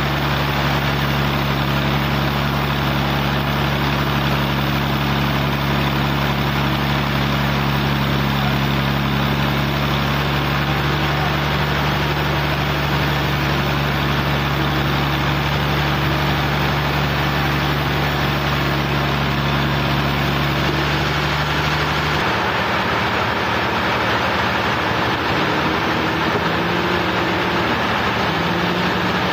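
Portable sawmill's engine running steadily with a constant hum; about three quarters of the way through its low note changes and drops away.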